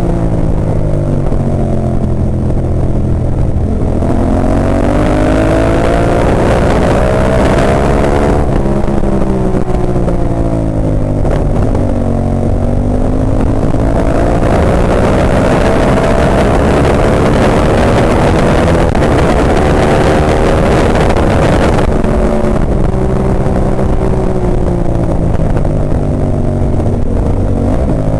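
Ducati 998's L-twin engine at race pace, its revs climbing several times and dropping back sharply, as the bike accelerates out of corners and slows into them.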